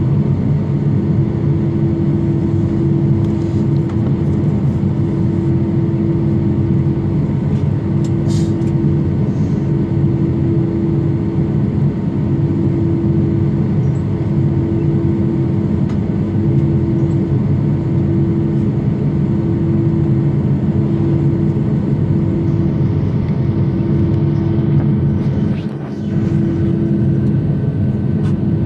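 Airliner cabin noise: a loud, steady hum from the engines and air system as the jet rolls on the ground, with a held low drone running through it and a brief dip in level near the end.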